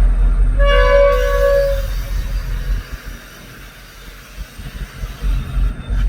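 VIA Rail passenger train's locomotive horn sounding one short blast of chord-like tones about half a second in, over a steady low rumble.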